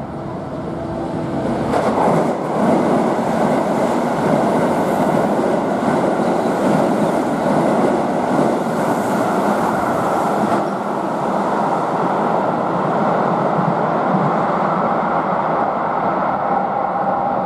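Keihan Main Line train running through the station without stopping. Its noise builds over the first two seconds, then holds as a loud, steady sound of wheels on rails.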